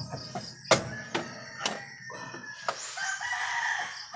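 A rooster crowing about three seconds in, with a few sharp clicks or knocks before it.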